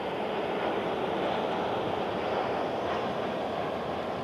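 Shinkansen high-speed train running past at speed, a steady rushing noise that swells slightly and eases off.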